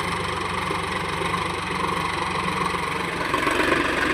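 Tractor diesel engine running steadily, its note shifting slightly about three seconds in.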